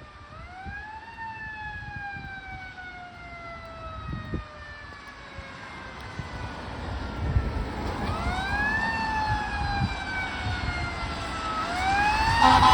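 Fire engine siren winding up quickly and slowly falling in pitch, twice, with a third wind-up starting near the end, growing louder as the truck approaches over low engine and road rumble. An air horn begins to blast right at the end.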